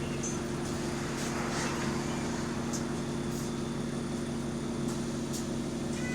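Bus engine running steadily with an even, low hum, heard from inside the bus; the bus has an exhaust leak.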